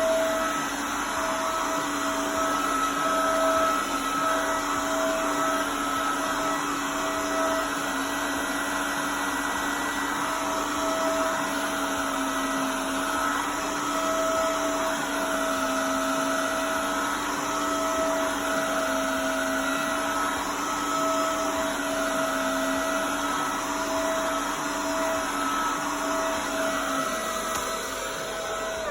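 Vacuum-mop combo cleaner running steadily with a motor whine as it is worked over a rug to pick up dog hair. At the very end the motor is switched off and its whine falls away as it spins down.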